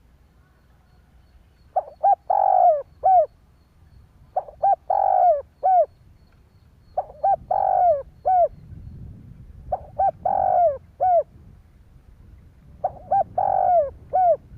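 Spotted dove cooing: five repeats of its song phrase, each two short coos, a longer drawn-out coo and a short closing note, about one phrase every two and a half seconds.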